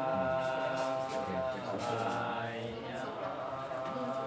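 Buddhist chanting in Pali by a group of voices, holding long steady notes, with a rise and fall in pitch about two to three seconds in.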